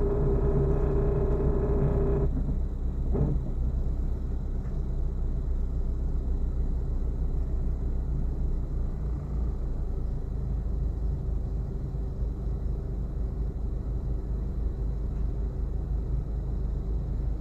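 Low rumble inside the cabin of a 2009 Honda Civic EX coupe on the move, with a steady hum that stops a couple of seconds in. The owner calls the noise awful and cannot say what causes it, suspecting the suspension.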